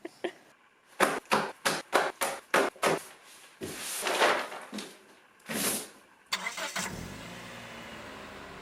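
A car engine cranking in a quick run of clicks, two swells of revving, then running steadily from about six seconds in.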